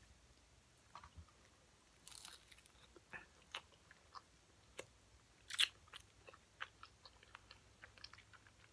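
Chewing of crunchy fried whiting fish close to the microphone: scattered short, crisp crunches and clicks, the loudest a little past halfway.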